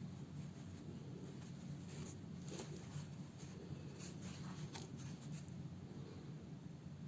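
Faint scratching and rustling of a needle and thread being pulled through a fabric slipper during hand-stitching, in a few short strokes over a steady low hum.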